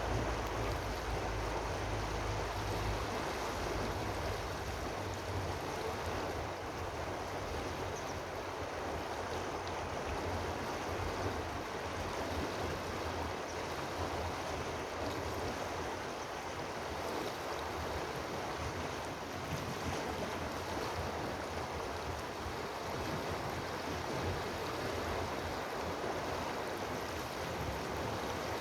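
Steady rushing of running water, even and unbroken, with a low rumble underneath during the first few seconds.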